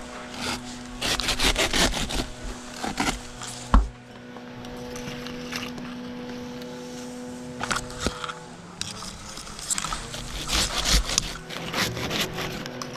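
Queen palm fronds being cut with a pruning handsaw: two bursts of quick rasping strokes, with one sharp thump a little under four seconds in. A steady low hum runs underneath.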